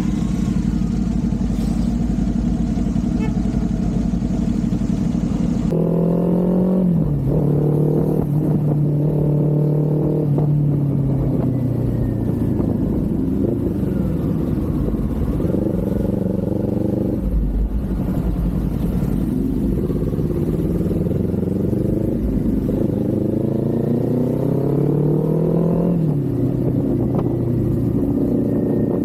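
Kawasaki Z400's 399 cc parallel-twin engine on the move: steady at first, then about six seconds in the revs rise and fall repeatedly through gear changes, with a long climb in pitch that drops off near the end, over wind and road noise.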